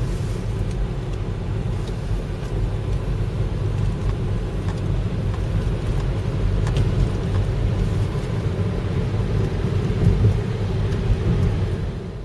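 Gale-force wind buffeting the microphone: a loud, unevenly fluctuating low rumble.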